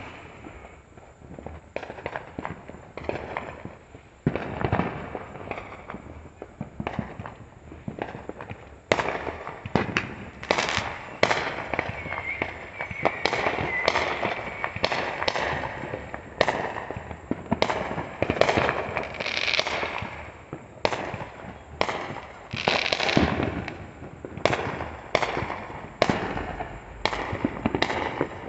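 Fireworks going off, many bangs and crackles one after another. Scattered at first, they become a near-continuous barrage from about nine seconds in.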